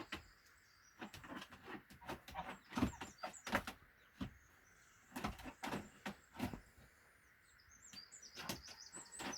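Irregular knocks and clatter of things being handled, with a few small bird chirps, mostly in the middle and near the end.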